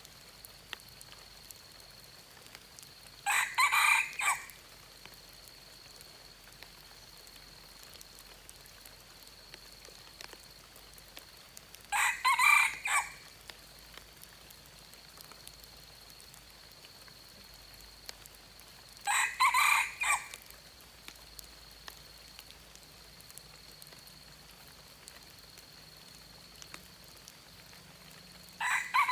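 Red junglefowl rooster crowing: a short, broken crow repeated four times, about every eight seconds, with a steady high tone behind it.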